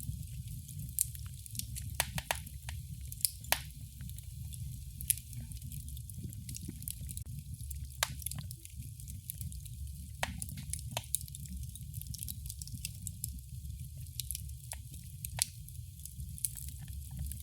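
Wood fire in a fireplace crackling: irregular sharp pops and snaps, some louder than others, over a steady low rumble.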